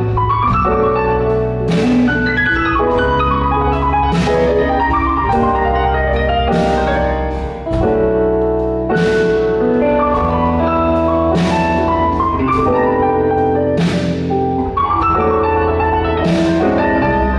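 Live blues band playing a slow instrumental passage: sustained chords and melody notes over bass and drums, with a cymbal crash about every two and a half seconds.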